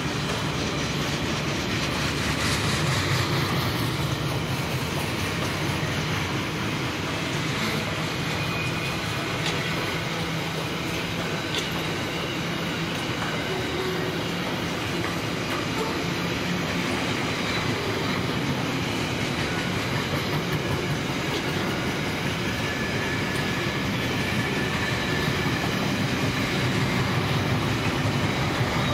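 Freight train wagons rolling past: a steady rumble of wheels on rail, with light clatter and a faint high wheel squeal now and then.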